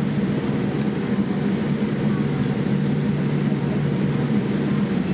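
Steady cabin hum inside a Boeing 787-8 taxiing after landing: a constant low drone from the engines and air conditioning, with a few faint ticks in the first three seconds.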